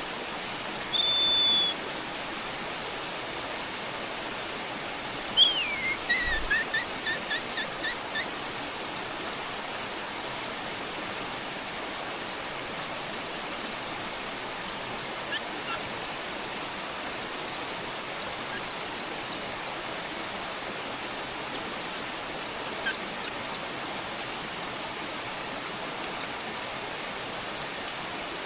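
Nestlings and a parent bird calling over a steady hiss: a short whistle near the start, then a downward-sliding call about five seconds in, followed by a long run of rapid, high, repeated cheeps that fade away over several seconds, the chicks begging for food.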